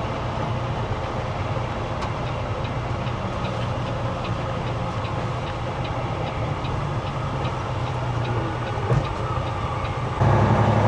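Semi-truck diesel engine running at low speed, heard from inside the cab, with a light regular ticking about twice a second. The engine gets louder near the end.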